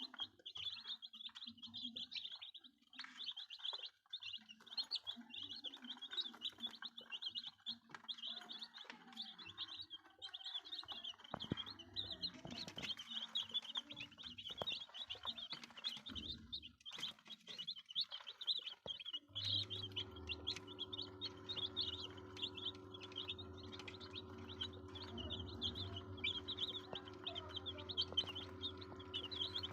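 A brood of Gimmizah chicks peeping constantly, many high, rapid chirps overlapping. About two-thirds of the way in a steady mechanical hum starts beneath them.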